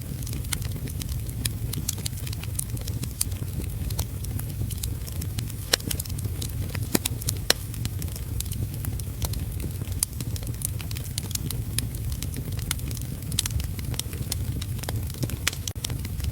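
Wood fire crackling in a fireplace, with sharp, irregular pops over a steady low rumble and the hiss of heavy rain.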